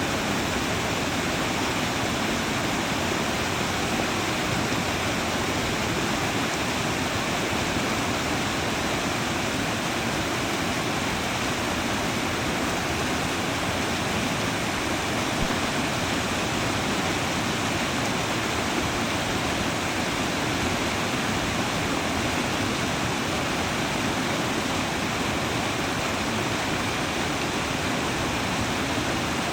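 Fast-moving creek rushing and churning around and under fallen logs: a steady, even rush of water.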